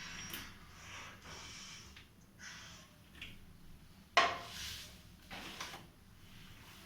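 Scattered handling noises, short rustles and light knocks, with one sharp knock about four seconds in that is the loudest sound.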